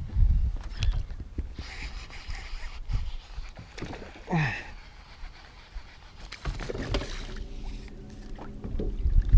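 Water noise and handling knocks aboard a small fishing boat, with a short squeal falling steeply in pitch about four and a half seconds in.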